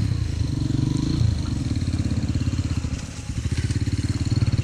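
Dirt bike engine running under throttle; about three seconds in the throttle is eased off, the engine drops to slower, distinct firing pulses, then picks back up.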